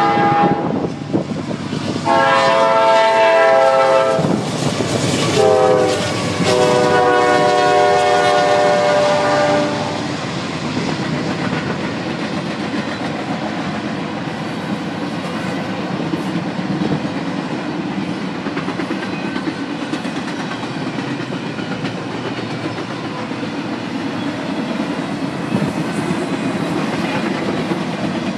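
Horn of a Norfolk Southern GE C40-9W freight locomotive sounding four blasts in the first ten seconds: long, long, short, long, the standard grade-crossing warning. After that comes the steady rumble and clatter of double-stack container cars rolling past.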